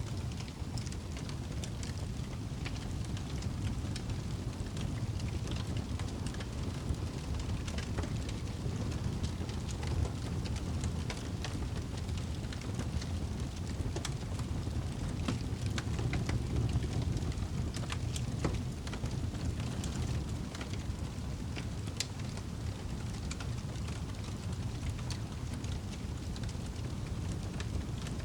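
Campfire burning: irregular crackles and small pops from the burning wood over a steady low rumble.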